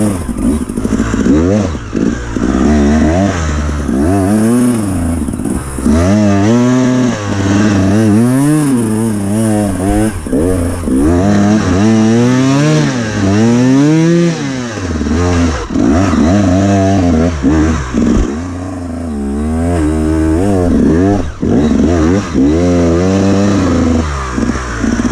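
Enduro dirt bike engine revving hard and dropping back again and again, its pitch rising and falling every second or two as the throttle is worked.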